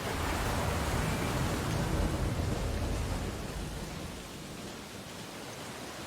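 Ocean surf: a wave breaks at the start with a low rumble and rushing wash that fades away over about four seconds, leaving a steady hiss.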